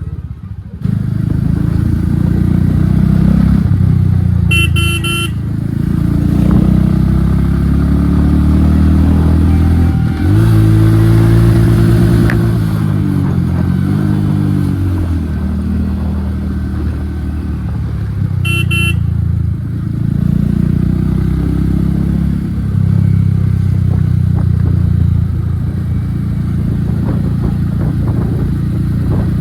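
Royal Enfield Hunter 350's single-cylinder engine, breathing through an aftermarket HK exhaust with no dB killer, running on the road, its revs rising and falling through the gears. A vehicle horn beeps twice, about five and nineteen seconds in.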